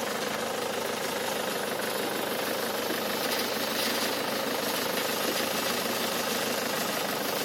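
Tractor engine running steadily at a constant speed, with a fast, even pulse.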